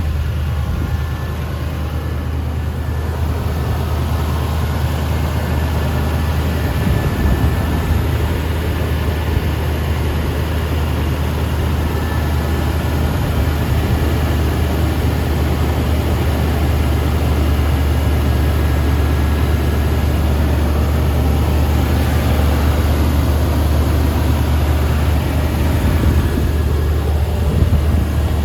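1998 Toyota Land Cruiser engine idling steadily as it warms up after a cold start.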